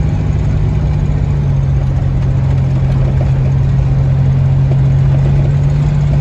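A 4.3-litre V6 running steadily in a custom pickup, a low even engine tone with rumble beneath it that shifts slightly in pitch about a second in.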